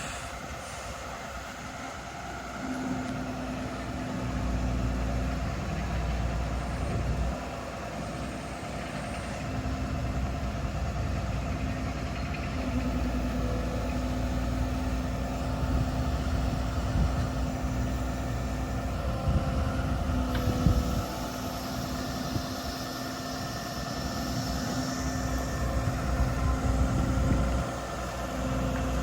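Diesel engine of an International HV507 bucket truck running, rising and falling in loudness several times. A steady hum sounds over it and starts and stops repeatedly.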